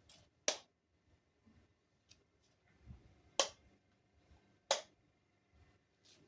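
Three sharp clicks, the first shortly after the start and the last two about a second and a half apart.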